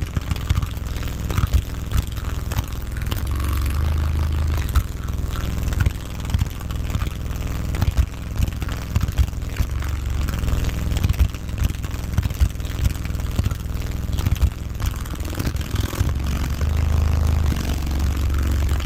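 Car subwoofers playing very deep bass notes at high volume, a low sustained rumble with frequent crackling clicks over it.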